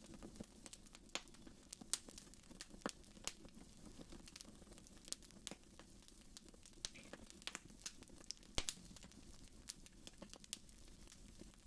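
Wood fire crackling in a fireplace: faint, irregular snaps and pops over a low steady background, with one sharper pop about eight and a half seconds in.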